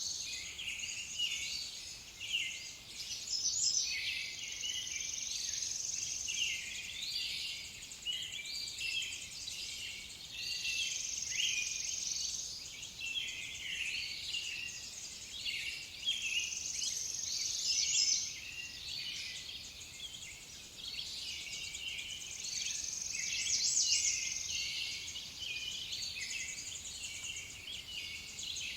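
Several songbirds singing and chirping over one another in a dense chorus, with a high, steady trill that swells and fades every few seconds.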